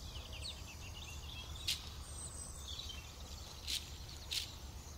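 Small birds chirping faintly outdoors: a quick twitter at first, then three short sharp chirps spaced out, over a steady low background hum.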